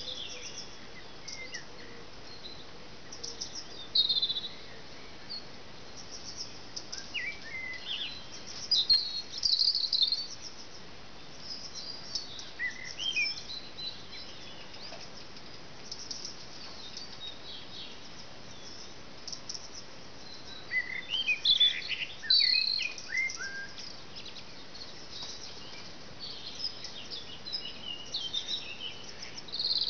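Garden songbirds chirping and singing in scattered bursts over a steady faint hiss.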